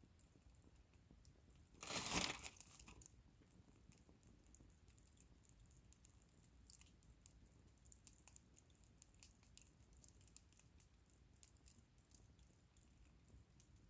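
Bonfire crackling faintly with scattered small pops, and a brief crunching rustle about two seconds in that lasts about a second.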